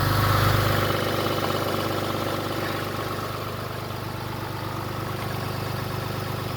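2016 Ram 3500's Cummins inline-six turbo diesel idling steadily, loudest about half a second in and then easing slightly.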